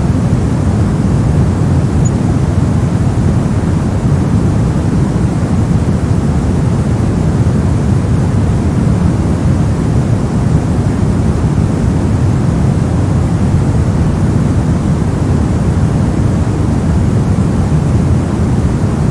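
Steady, unchanging white-noise track, with most of its weight in the low range.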